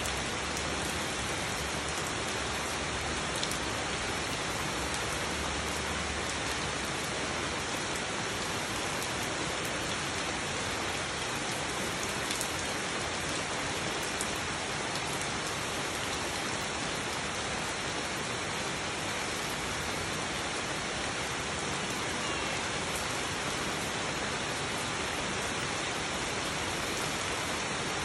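Steady rain falling on garden foliage and wet ground: an even hiss with a few single drop ticks.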